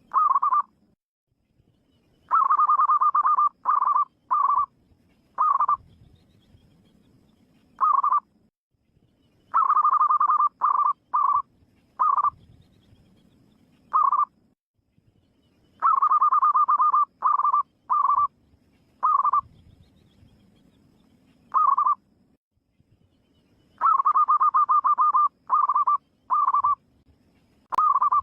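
Zebra dove (perkutut) singing: about four phrases, each a rolling, trilled coo followed by three or four short coos that space out, repeated every seven seconds or so.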